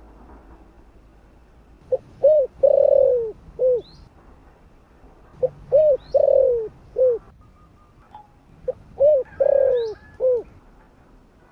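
Spotted dove cooing: three phrases about three and a half seconds apart, each a short note, a coo, a long falling coo and a last short coo. Faint high chirps from another bird come between the phrases.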